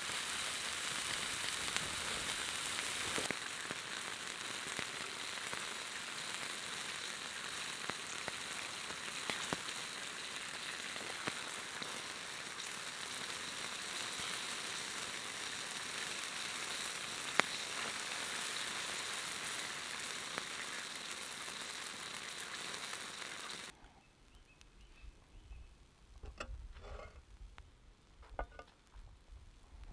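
Pancake batter and meat frying on hot flat stones over a campfire: a steady sizzle with scattered sharp crackles. The sizzle stops abruptly about four-fifths of the way through, leaving only a few faint small sounds.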